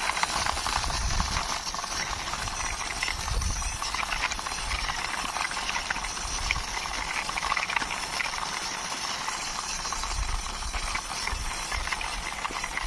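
Plastic toy backhoe loader pushed along by hand, its wheels rolling with a steady hiss and many small clicks and rattles.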